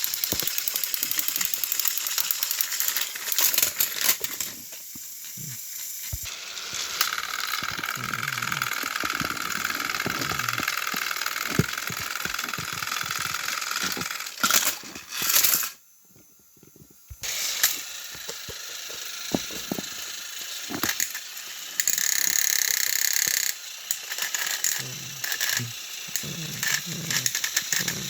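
Battery-powered toy train engines running on plastic track, their motors whirring while wheels and cars rattle and clatter, with clicks and knocks throughout and a brief pause about halfway through.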